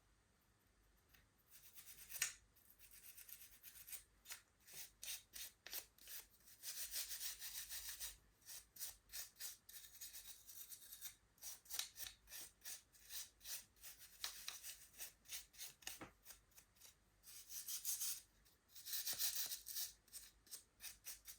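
Quick back-and-forth rubbing strokes scrubbing the plastic of a Game Boy Advance, around its power switch, with isopropyl alcohol: a soft, high-pitched scratchy scrubbing in runs of several strokes a second, with short pauses between runs.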